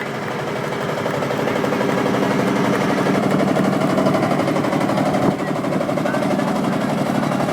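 Crowd applauding, the clapping building over the first couple of seconds and then holding steady, with vintage tractor engines running underneath.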